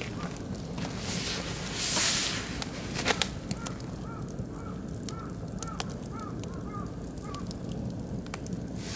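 Oak and beech wood fire crackling with sharp pops, with a brief rush of hiss about two seconds in. From the middle on, a bird calls in a quick series of about nine short rising-and-falling notes.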